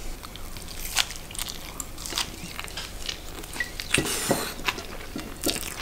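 A man biting into and chewing a mouthful of salted herring on rye bread with arugula and caper dressing, heard as irregular short mouth clicks and chewing sounds.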